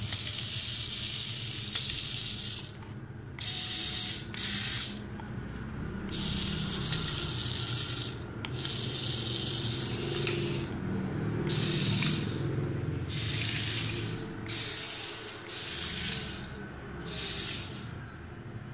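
Small electric motors and gears of a 1/24-scale remote-control stunt truck whirring in about ten bursts of half a second to two seconds, stopping and starting as the throttle is worked.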